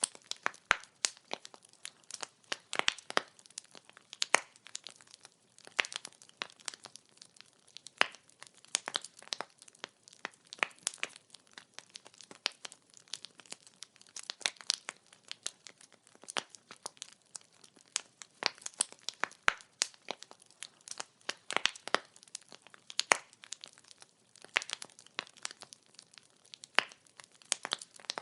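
Wood fire crackling: burning firewood gives off a dense, irregular run of sharp pops and snaps over a faint hiss.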